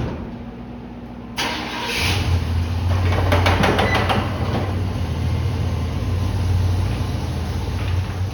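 1998 Chevy K3500 plow truck's engine being started: the starter cranks about a second and a half in, and the engine catches and settles into a steady idle.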